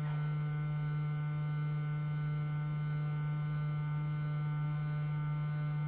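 LulzBot TAZ 6 3D printer's Z axis running, a steady hum with a row of fainter steady higher tones. The owner judges this new printer's Z-axis noise a defect and traces it to a Z rail.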